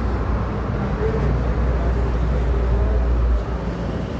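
Motor vehicle running with road noise: a steady low rumble that eases slightly about three and a half seconds in.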